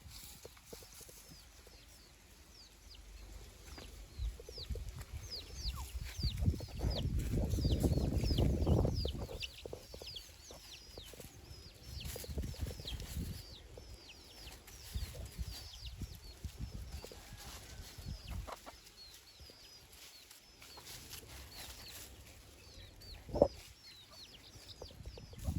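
Free-range native chickens clucking, with many short high chirps throughout. A few seconds of low rumbling noise come near the middle, and there is one sharp, loud call near the end.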